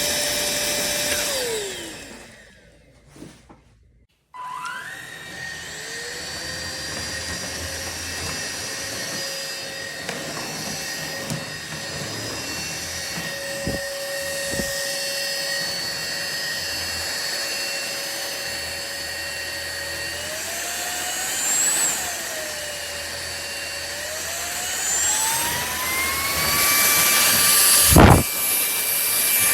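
SMOTURE cordless stick vacuum's motor running with a high whine, winding down and stopping about a second in, then starting up again a few seconds later. Its pitch rises and falls around two-thirds through, then climbs to a higher speed, with a sharp knock near the end.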